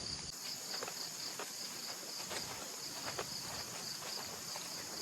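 Chorus of crickets and other insects, a steady high trilling, with faint clicks scattered through it.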